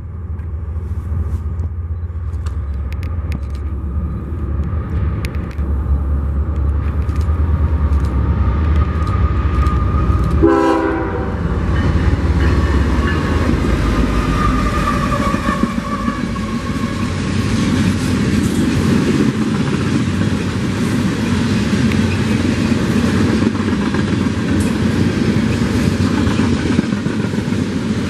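Freight train led by two BNSF diesel locomotives approaching and passing close by. The locomotives' engines rumble steadily and get louder, with a brief pitched sound about ten seconds in as the lead unit passes. Then tank cars roll past with a steady clatter of wheels on rail.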